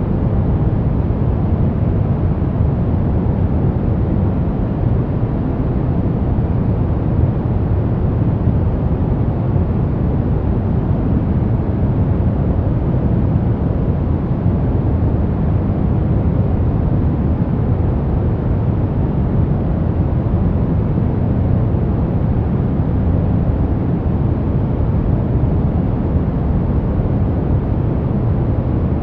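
Steady sleep-aid noise sold as white noise: an even, deep rushing hiss weighted toward the bass, with no changes at all.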